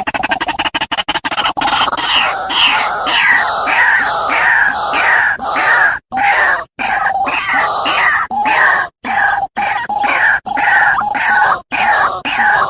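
White-breasted waterhen (ruak-ruak) calling over and over in loud, harsh phrases of falling notes broken by short pauses, as a recorded lure call for trapping. A fast pulsing electronic sound dies away in the first second or two.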